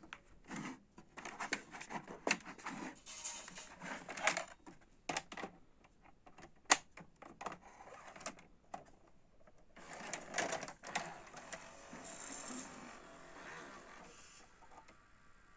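Irregular mechanical clicks, clunks and rattles of a VHS video recorder being handled and worked, with one sharp click about seven seconds in.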